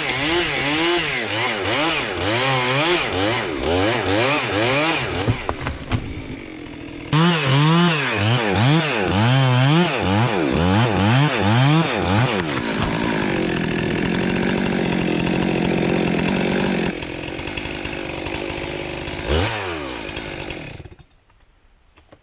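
Two-stroke chainsaw cutting wood, its engine pitch rising and falling over and over as the chain bites and eases. From about 13 seconds it runs at a steady speed, and it stops about 21 seconds in.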